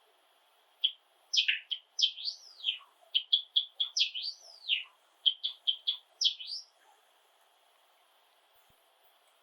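Male Java sparrow singing one song phrase: quick clicking notes run into slurred whistled notes that rise and fall, stopping about seven seconds in.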